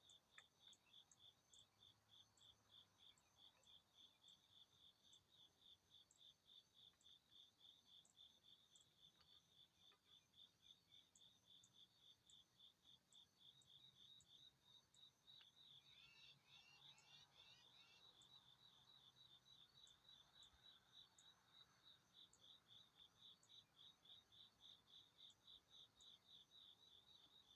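Faint, steady insect chirping, typical of a cricket, in a regular train of quick high pulses. A bird briefly sings a run of quick sweeping notes about sixteen seconds in.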